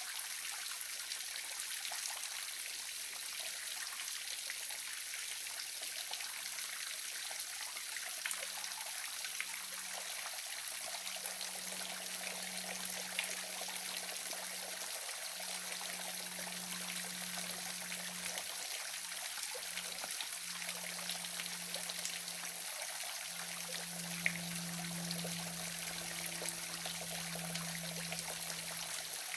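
Waterfall: a steady rush of falling water with a high hiss and a few small splashes. A faint low hum fades in and out from about a quarter of the way through.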